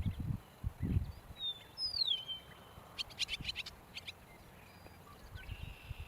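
Eastern meadowlark singing: one slurred, falling whistle about a second and a half in, then a quick run of short, dry notes around three seconds in. Low rumbling noise sits under it, mostly in the first second.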